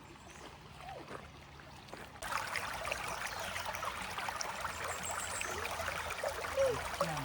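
Quiet outdoor ambience, then about two seconds in a sudden switch to the steady babble of a creek's running water.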